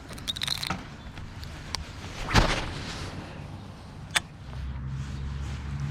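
A few knocks and clatters, the loudest a single thump a little over two seconds in. About four and a half seconds in, a boat motor starts a steady low hum that carries on.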